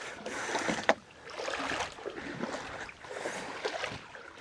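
Canoe sliding off a truck's canoe rack into the water: uneven rubbing and sloshing noise, with a sharp knock about a second in.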